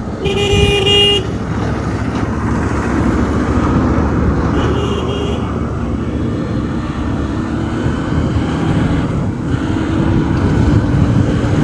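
Motorcycle running on the road in traffic, with steady engine and road rumble. A vehicle horn honks for about a second near the start, and a fainter horn sounds around the middle.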